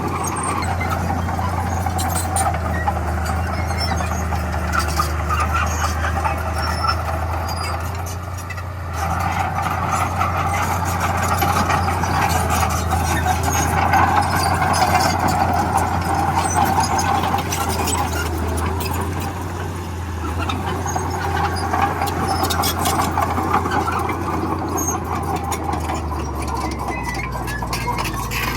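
Bulldozer's diesel engine running steadily under load, with scattered clanks. It eases off briefly about eight seconds in, then picks up again.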